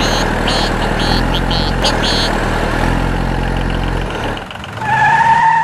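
Tractor engine sound running steadily at idle. Near the end the engine fades and a steady high-pitched tone comes in.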